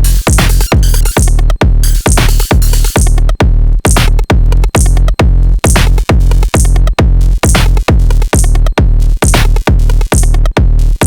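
Sonic Potions LXR-02 digital drum machine playing a techno groove: a deep kick drum on a fast, steady beat, with bright hi-hat and noise percussion recurring on top.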